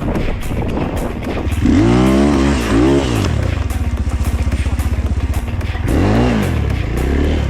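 Dirt bike engine running with a pulsing note and revved up and back down twice, once about two seconds in and again about six seconds in.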